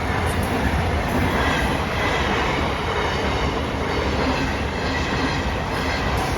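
A train running past, with a steady rumble of wheels on rails.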